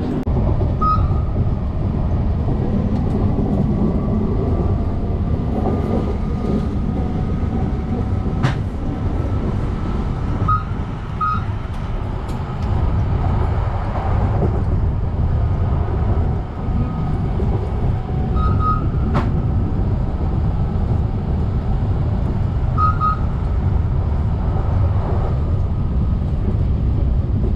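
Cabin noise of a Circumvesuviana ETR 211 electric train underway: a steady low rumble of wheels on the rails with a faint whine, a couple of sharp clicks, and short paired high beeps a few times.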